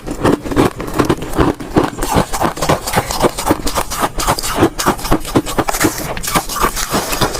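Ice cubes being crunched between the teeth: a rapid run of sharp crunches, several a second.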